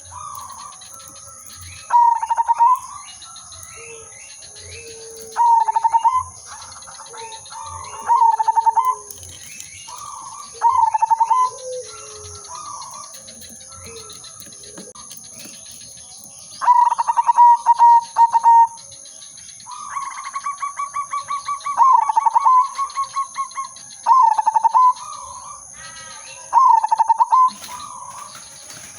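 Zebra doves (perkutut) singing: loud, rapidly stuttering cooing phrases repeated every few seconds, two of them longer and drawn out past the middle, with fainter chirps and softer low coos in between.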